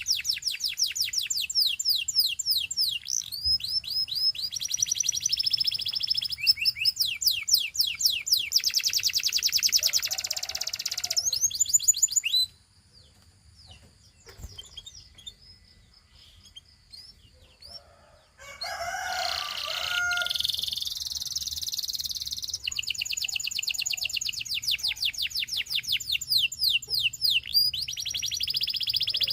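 Gloster canary singing: long, fast trills of rapidly repeated high notes, changing from one trill to the next. The song breaks off for about six seconds near the middle, then resumes.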